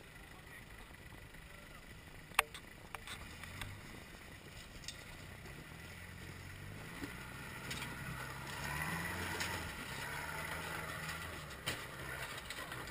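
4x4 off-road vehicle's engine revving up and down as it crawls over rocks, growing louder from about halfway. A few sharp knocks are heard, the loudest about two and a half seconds in.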